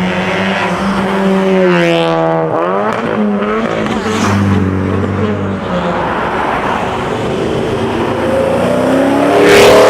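Car engines revving hard as cars accelerate away, the engine pitch climbing steeply about two seconds in and falling back, then climbing again near the end, which is the loudest moment.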